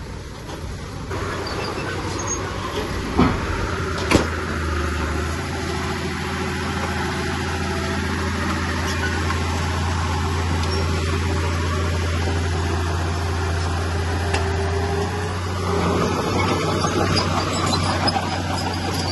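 Diesel engine of heavy earthmoving machinery running steadily under work, with two sharp clanks about three and four seconds in.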